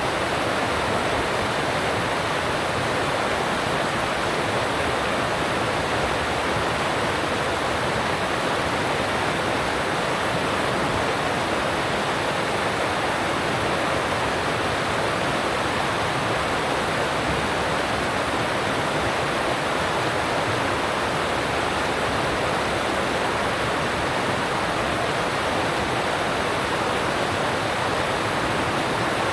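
Alpine stream rushing steadily over rocks, an even rush of water without let-up.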